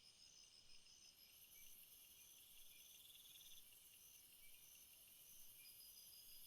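Faint chorus of insects, crickets or katydids, chirring steadily at a high pitch, with one call pulsing on and off a little more than once a second.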